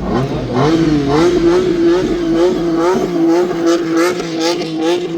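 Car engine running hard at high revs on a hill climb. Its note climbs in the first second, then holds high and fairly steady with a slight warble.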